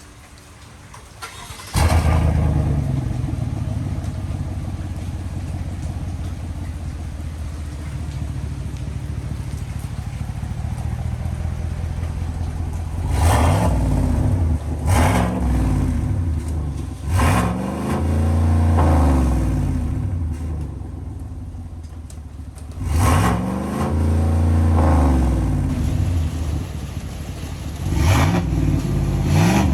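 2020 GMC Sierra 1500 pickup's engine starting up about two seconds in and idling through its exhaust. From about halfway through it is revved several times, each blip rising and falling back to idle, with the last revs near the end.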